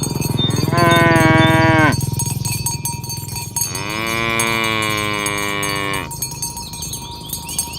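Cattle mooing: two long moos, the first about a second in and the loudest, the second starting about three and a half seconds in and lasting a little over two seconds.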